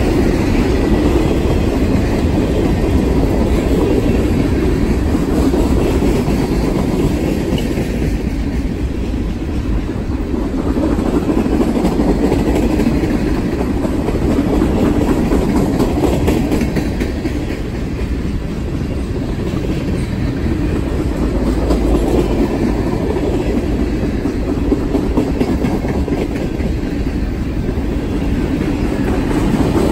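Mixed freight cars of a passing train rolling by close at hand: steel wheels clacking over the rail joints over a steady, loud rumble.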